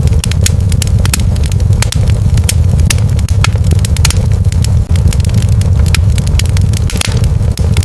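Wood fire crackling in a fireplace: many irregular sharp snaps over a steady low rumble of the flames.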